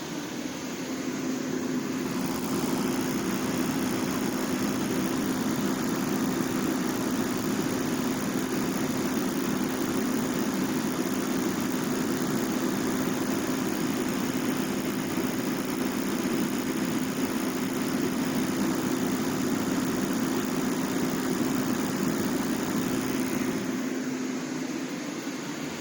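Heat Star portable propane heater running: a steady burner roar with a constant hum under it. It gets louder about a second in and eases back near the end.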